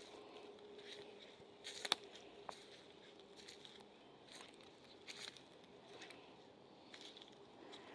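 Faint footsteps walking on the forest floor, a step roughly every second, with a louder crunch just before two seconds in.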